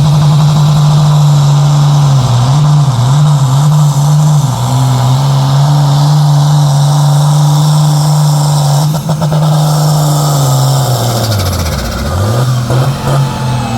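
A pulling vehicle's engine runs hard at high, steady revs under load down the pull track, wavering a couple of times. About twelve seconds in the revs drop sharply, then flare briefly and fall away as the pull ends.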